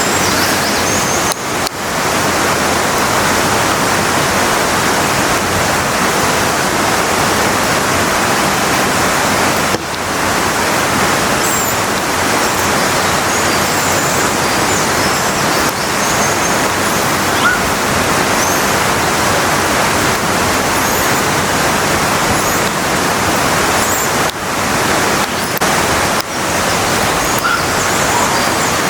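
Steady rush of water falling at Kanba Falls, a large waterfall: an even, unbroken noise that dips briefly a few times, with faint short high chirps now and then.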